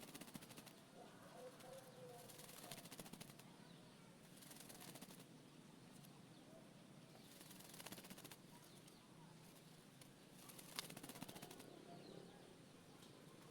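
Oriental magpie-robin fluttering and shaking its feathers in about five brief, faint bursts of rapid wingbeats, a few seconds apart.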